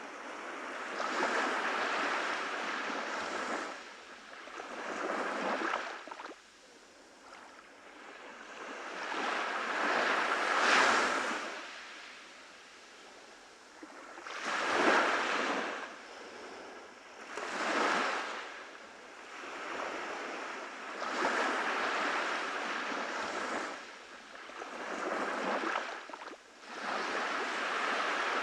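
Ocean waves breaking on a beach, the surf swelling and falling away in separate surges every three to four seconds.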